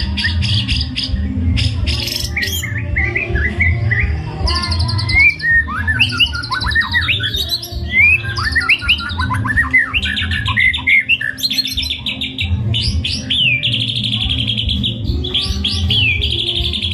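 White-rumped shama (murai batu) singing a fast, varied song of whistles, chirps and rattling trills, over low background music.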